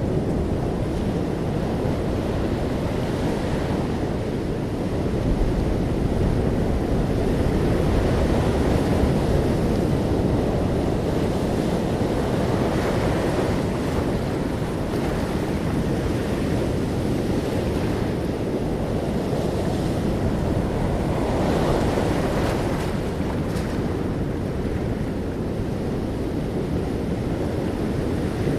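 Sea waves breaking and washing on the shore, swelling and easing in a slow rise and fall, with wind buffeting the microphone.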